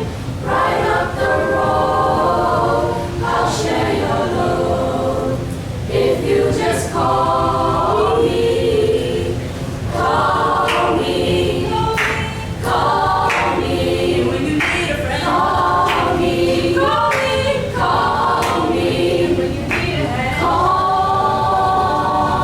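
A group of voices singing a cappella in harmony, holding chords in phrases of a few seconds with short breaks between them.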